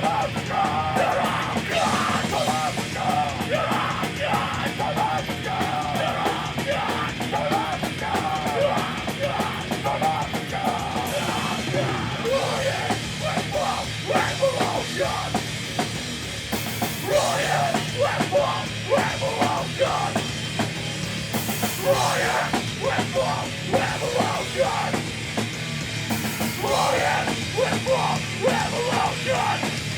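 Live punk band playing loud, distorted guitars and drum kit with shouted vocals.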